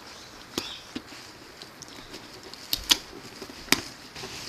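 Wrapping paper and tape on a gift being handled and pulled open: scattered sharp crackles and snaps, the loudest a few close together around three seconds in and one more a little later.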